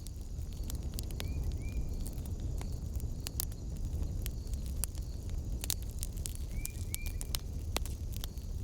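Wood fire burning in a fireplace: steady crackling with sharp pops over a low rumble. Two pairs of short high chirps come through, about a second in and again near seven seconds.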